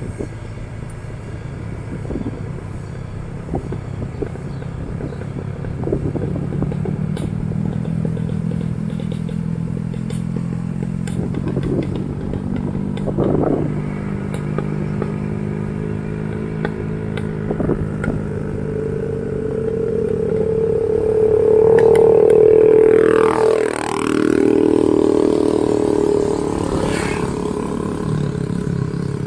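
Motorcycle engine running while riding, with scattered clatter and knocks from the bike over uneven ground. The revs climb and the engine grows louder toward about 22 seconds in, then drop sharply and pick up again a couple of seconds later.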